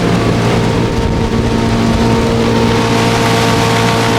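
75 hp Evinrude two-stroke V4 outboard running steadily at cruising speed, its pitch holding level, over the rush of water and wind as the boat moves.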